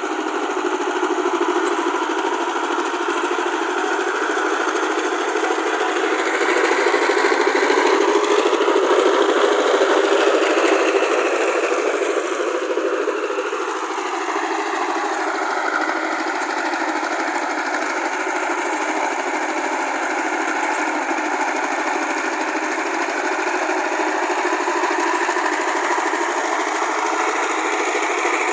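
Tractor engine running under steady load. Its pitch climbs a few seconds in and drops back about halfway through as the engine speeds up and then slows. The sound is thin, with no low end.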